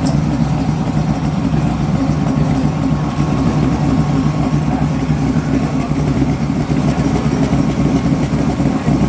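A car engine idling steadily and evenly.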